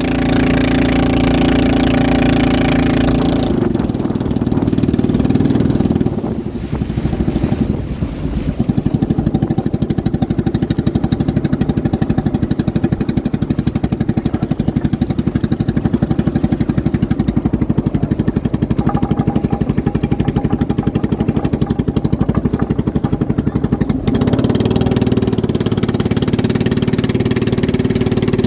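Racing motorboat engines running steadily, their note changing about three seconds in and again near the end.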